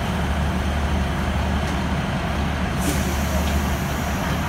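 Third-class passenger train on Thailand's eastern line, heard from aboard: a steady low rumble with a wide noisy hiss over it, and a short sharp hiss about three seconds in.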